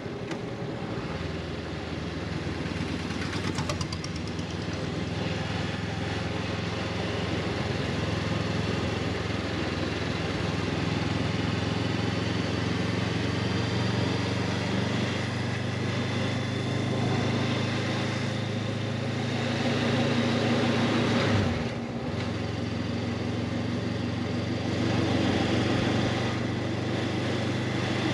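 Honda CB500X's parallel-twin engine running steadily under way. The engine note builds over the first few seconds and briefly dips and falls about three-quarters of the way through before picking up again.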